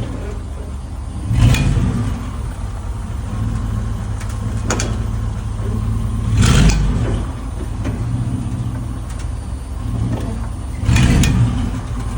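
2005 Chevy Tahoe running with a steady low drone, broken by four sharp cracks: one about a second and a half in, then three more over the next ten seconds. These are the cracking noises the truck makes when accelerating.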